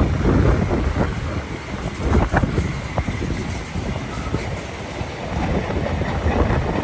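Wind buffeting the microphone: a loud, uneven low rumble that swells and drops, with scattered knocks.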